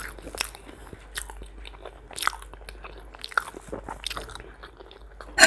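Close-miked chewing of soup and bread: irregular wet mouth clicks and smacks, with a louder smack near the end.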